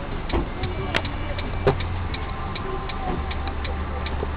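A car's turn-signal indicator ticking evenly, about two or three clicks a second, over a steady low engine and road rumble inside the cabin, with a couple of louder knocks.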